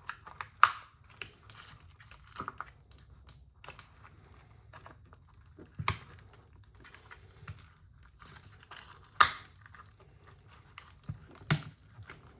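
Hands handling the small plastic parts and wiring of an RC car: scattered light clicks, taps and rustling, with four sharper clicks spread through.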